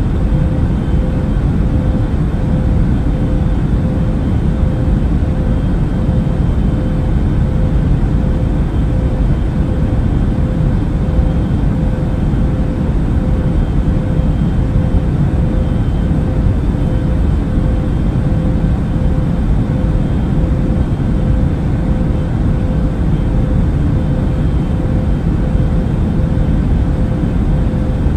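Airplane cabin noise in flight: a steady, unbroken low drone of engines and airflow with a constant hum running through it.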